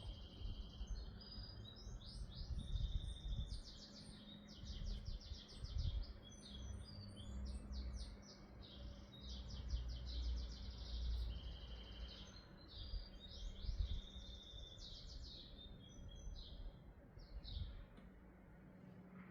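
Small songbirds singing continuously in rapid chirps and trills, over a low, uneven rumble and a faint steady hum.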